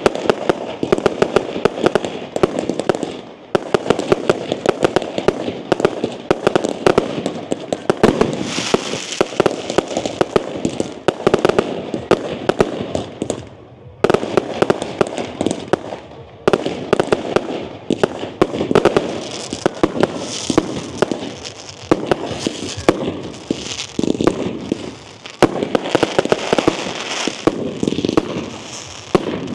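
A firework display: a dense, continuous barrage of rapid bangs and crackles, with short lulls about three, fourteen and sixteen seconds in.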